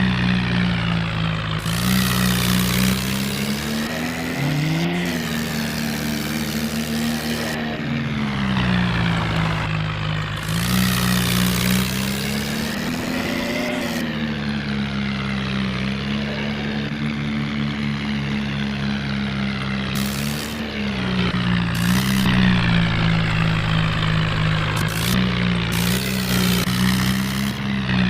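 Tractor engine sound running steadily as a low drone, its pitch rising and dipping now and then, with a hiss that comes and goes in several bursts.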